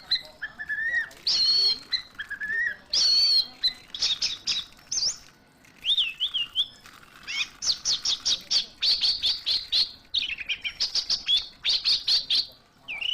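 Orange-headed thrush (anis merah) singing: short whistled phrases at first, then quick runs of sharp, high chirping notes, each lasting about a second.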